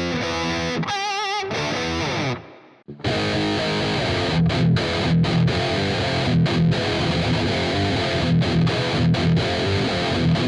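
Epiphone Widow Les Paul Custom electric guitar played through heavy distortion: a held chord, then a single note shaken with wide vibrato that slides down and dies away. After a short break about three seconds in, a fast chugging riff with short rhythmic stops.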